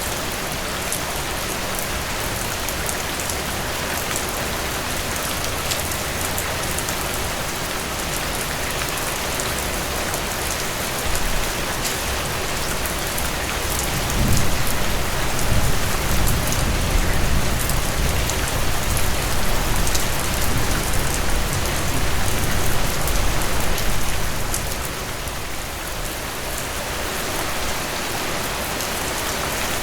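Steady heavy rain, a dense hiss with scattered drop ticks. About halfway through a low rumble swells up and fades again some ten seconds later.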